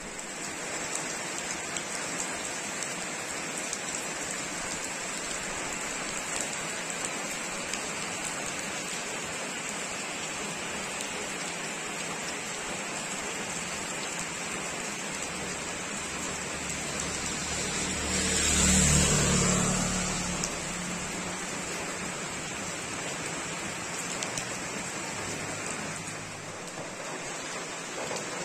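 Heavy rain falling steadily on paving and a road. About two-thirds of the way through, a vehicle passes on the wet road, its engine swelling to the loudest moment and then fading.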